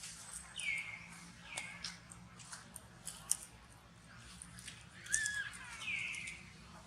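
Monkeys giving short, high-pitched squeaky calls that slide down in pitch, several in a row with pauses between them, over faint clicks and rustling.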